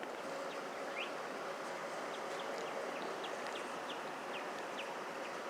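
A small bird chirping: a string of short, thin rising notes, roughly two a second, over a steady outdoor background hiss.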